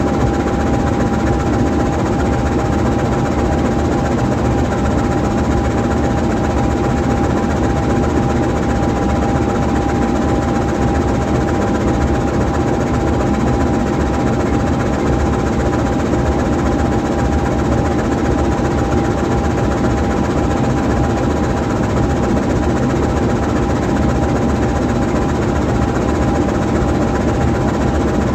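GE U20C diesel-electric locomotive's V8 diesel engine idling steadily while the locomotive stands parked, with a thin, steady high whine running over the engine note.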